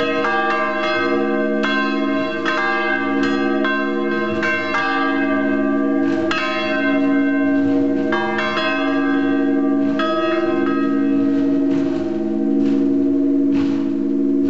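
Three swinging church bells pealing, swung by linear-motor drives, their clappers striking in an irregular, overlapping pattern with the tones ringing on between strikes. In the last few seconds the strikes come softer and fewer.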